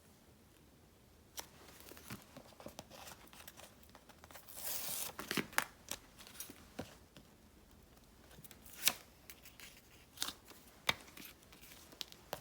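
Paper crafting sounds: a brief tearing rustle of paper about four and a half seconds in, among scattered light taps, clicks and crinkles of paper and stickers being handled.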